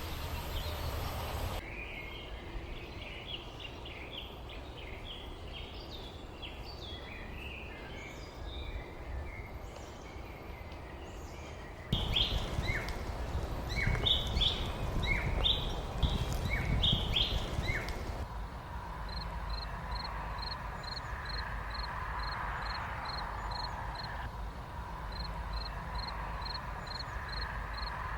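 Birds chirping and twittering over a low outdoor rumble, the mix changing abruptly a couple of times. In the last third a single high pip repeats about twice a second, with a short break near the end.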